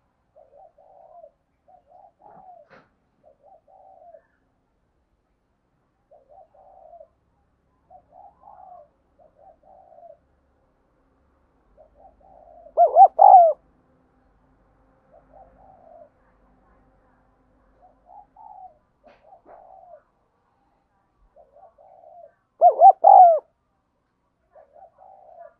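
Spotted dove cooing: a steady run of soft, repeated coo phrases. Two much louder coo phrases come about halfway through and again near the end.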